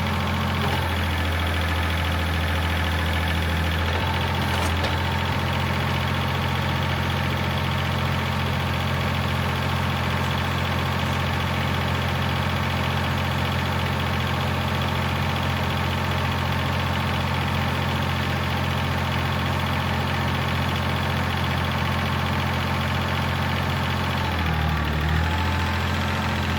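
Tractor engine idling steadily, wavering briefly near the end.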